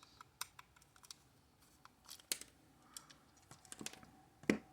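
Small irregular clicks and ticks of a triangular security bit turning the screws out of a small plastic toy's shell and the toy being handled, busier towards the end, with one sharper knock near the end.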